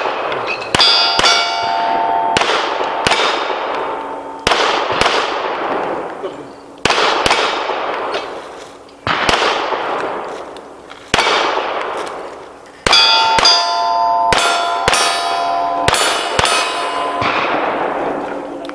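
A string of pistol shots at steel targets, with the hit plates ringing as a clang. Shots come in pairs about two seconds apart through the middle, then faster in the last few seconds, where the steel rings most.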